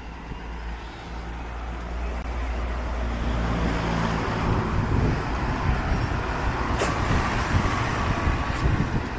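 Road traffic: a vehicle engine running steadily, with road noise that grows louder over the first few seconds, and a sharp click about seven seconds in.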